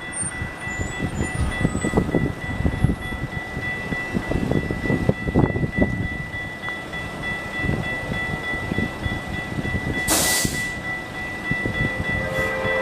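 A train running past with an uneven rumble of wheels on rail, under a steady high ringing tone. A short hiss comes about ten seconds in, and a train horn starts to sound near the end.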